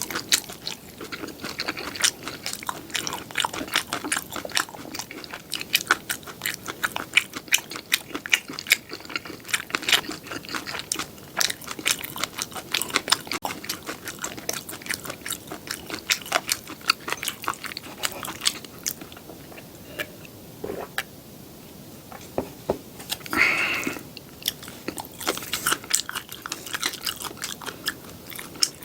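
Close-miked chewing of crispy-edged seafood pajeon, with dense crackly crunches that thin out about two-thirds through and a short louder sound soon after.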